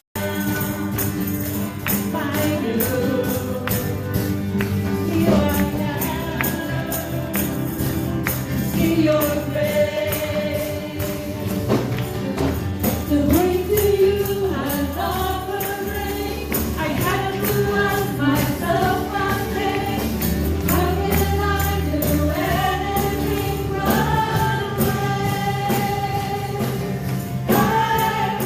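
Gospel worship song: voices singing a melody together over a band, with a tambourine shaken and struck steadily throughout.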